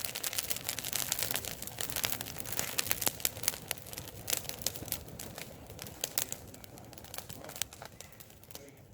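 Campfire crackling: wood burning with dense sharp pops and snaps, thinning out and quieter in the last few seconds.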